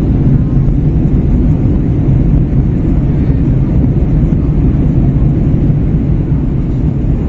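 Steady low roar of airflow and engines heard inside the cabin of an Airbus A321 during its descent.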